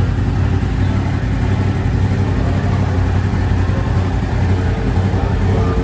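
An engine idling steadily, a constant low hum with no revving.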